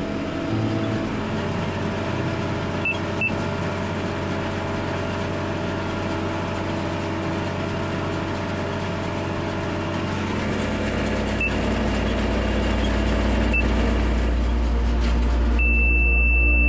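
Tractor engine running, its deep rumble growing louder about two-thirds of the way through. A few short, high electronic beeps sound over it, and near the end they turn into one steady beep.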